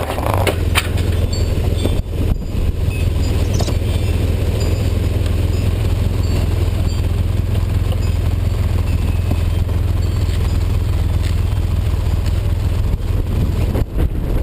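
Snowmobile engine running steadily under way, a continuous low drone with a rush of noise over it.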